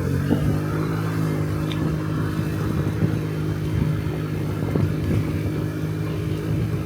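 Honda Dio Cesta AF68 50cc scooter's four-stroke single-cylinder engine running at a steady speed while being ridden, a constant hum.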